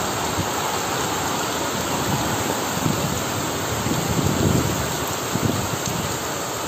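Heavy convective downpour: rain pouring steadily in a strong wind, with a few gusts of wind rumbling on the microphone in the second half.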